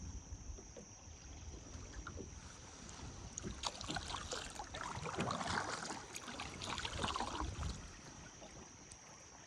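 Kayak paddle strokes splashing and dripping in moving river water, busiest in the middle few seconds.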